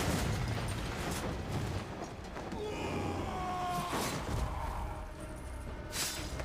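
Film battle sound effects: a dense clamour of fighting, with a falling cry about three seconds in and sharp impacts around four and six seconds.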